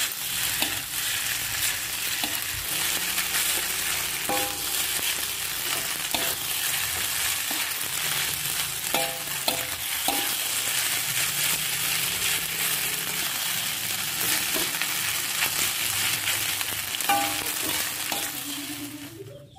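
Spiral macaroni and egg sizzling in an aluminium wok, stirred and scraped with a metal spatula, with short ringing scrapes of metal on the pan now and then. The sizzle cuts off near the end.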